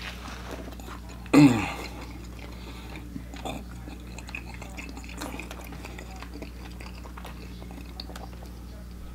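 A man chewing food with his mouth closed, with faint small wet clicks, and one short falling vocal sound, like a grunt or "mm", about a second and a half in. A steady low hum runs underneath.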